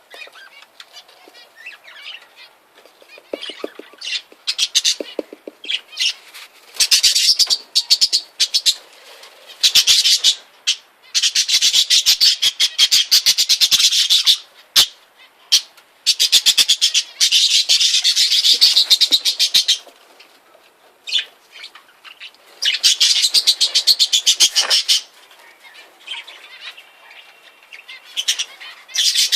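Ornamental cage birds chattering, with several long runs of rapid, high-pitched calls lasting a few seconds each and quieter scattered chirps between them.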